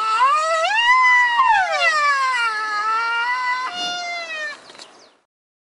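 White rhinoceros squealing: a long, high-pitched whining call that slides up and down in pitch, with a few short breaks, cutting off about five seconds in.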